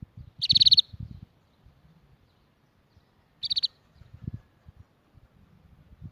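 Canary singing two short, rapid trills, the first about half a second long near the start and a shorter one a few seconds later, with soft low thumps between them.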